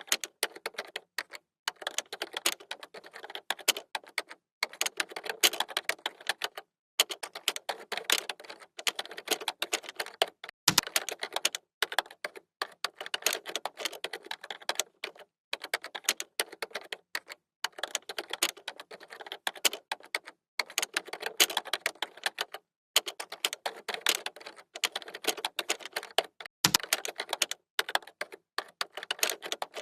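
Computer keyboard typing: rapid keystrokes clattering in runs of a few seconds, broken by brief pauses. Two deeper thuds come about a third of the way in and near the end.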